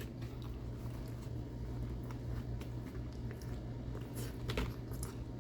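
Steady low hum with a few faint clicks about four seconds in.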